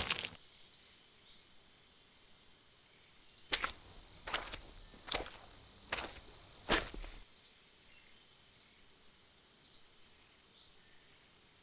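Cartoon fight sound effects: a quick run of about eight sharp swishes in the middle of the stretch. Under them is faint outdoor ambience with short, high bird-like chirps every second or so.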